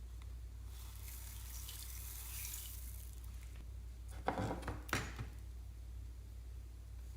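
Slime being squeezed and worked by hand: a soft wet hiss for a couple of seconds, then two short squelches about half a second apart.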